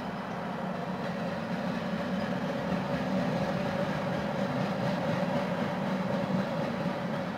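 A freight train's cars, open-top hoppers and boxcars, rolling steadily past on the tracks: a continuous rumble and rattle with a faint steady whine, growing a little louder about two seconds in.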